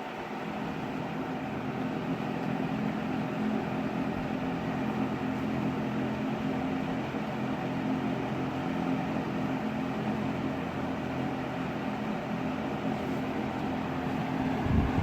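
Metal-bladed McGraw-Edison box fan running steadily: a constant low motor hum under the rush of air from the blades. A short low bump comes near the end.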